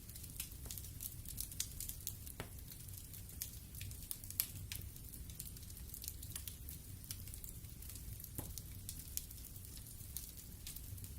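Wood fire in a fireplace crackling, with irregular sharp pops and snaps of burning wood over a low steady rumble of the flames.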